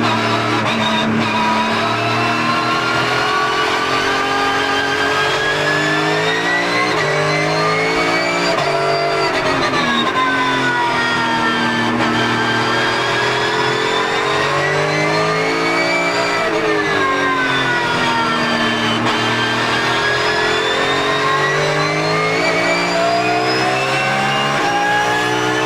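Porsche GT3 Cup race car's flat-six engine at speed, its note climbing steadily for several seconds and then dropping away, three times over.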